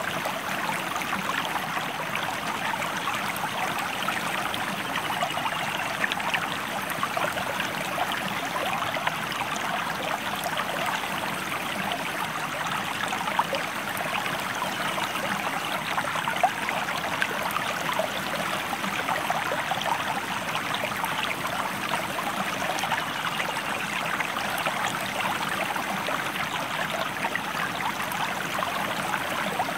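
River water flowing steadily, a continuous even rush of splashing water.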